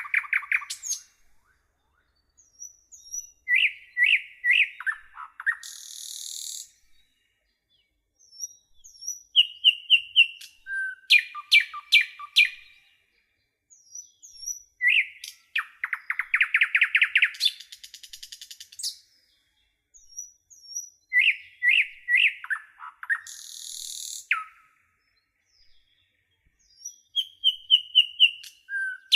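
A songbird singing in repeated phrases: quick runs of sharp chirps and short whistles, some with a harsh rasp, each phrase a few seconds long. A similar phrase returns about every six seconds, with silent gaps between.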